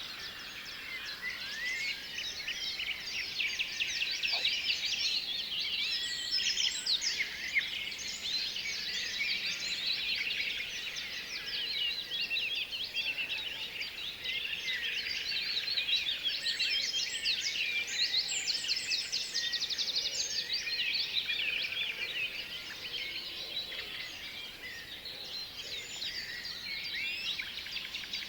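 Many small birds chirping and calling at once, a continuous chatter of quick, high chirps overlapping one another.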